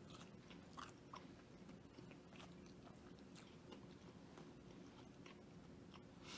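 A person chewing fried food: faint, scattered crunches and wet mouth clicks at an uneven pace, over a faint steady hum.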